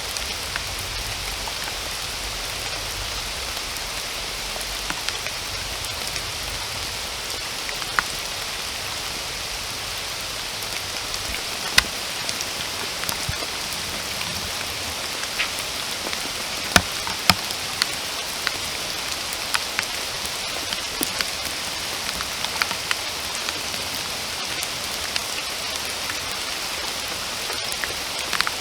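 Steady rain: a dense, even hiss of falling rain, with single heavier drops striking close by every second or so.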